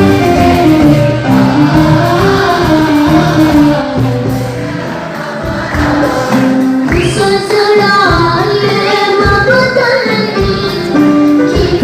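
A choir singing a song with instrumental backing and a steady beat.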